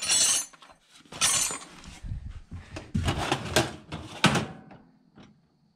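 Steel wrenches and sockets clanking and rattling against each other as they are handled and dropped into a tool bag, in four or so bouts of clatter.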